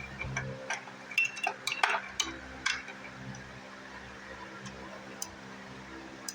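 Metal hand tools clinking and clanking as sockets and a socket extension are handled, with a quick run of irregular clanks in the first three seconds and then a few single ticks. A steady low hum runs underneath.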